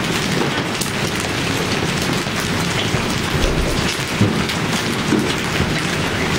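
Large hailstones pelting down along with heavy rain: a loud, steady, dense clatter of many small hits.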